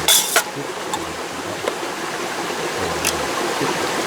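Mountain stream rushing steadily, with a short burst of gear-handling noise near the start and a couple of faint clicks.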